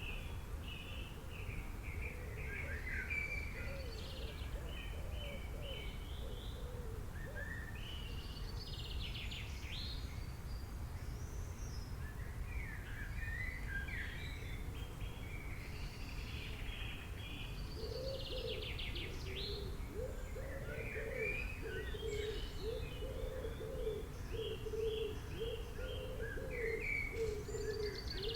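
Several birds chirping and trilling in quick, overlapping high calls, over a steady low rumble of background noise. From about the middle on, a lower, rapidly repeated call joins them.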